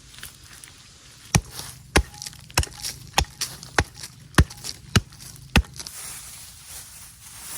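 Wood being chopped with a blade: eight sharp, regular strikes about 0.6 s apart, with lighter knocks between them.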